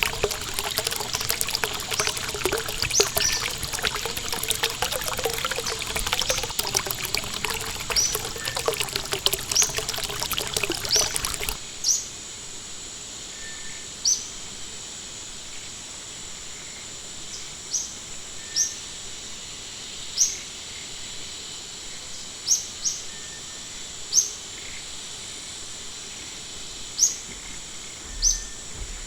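Rushing stream water with bird calls over it, cutting off suddenly about a third of the way through. What remains is short, high bird chirps repeated every one to two seconds over a steady high-pitched tone.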